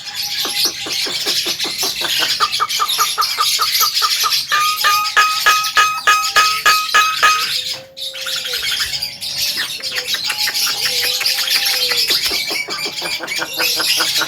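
Javan myna chattering: a fast run of clicking notes, several a second, mixed with short whistled tones, breaking off briefly a little past halfway before going on.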